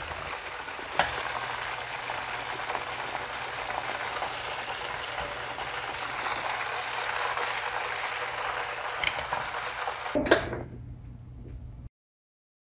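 Pork ribs frying in hot oil in a nonstick pan: a steady sizzle with a couple of sharp clicks. The ribs are golden on both sides and cooking on high heat so the fat renders out. Near the end there is a louder knock, then the sizzle drops away and cuts off.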